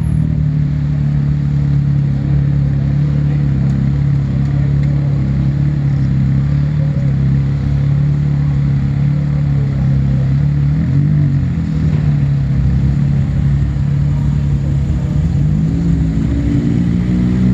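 Rally vehicle engine running steadily at one pitch, with a brief rev about eleven seconds in and the pitch climbing near the end as it revs up.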